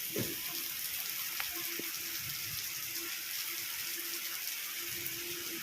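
Steady rain falling, an even hiss of drops on leaves and surfaces, with a faint click about a second and a half in.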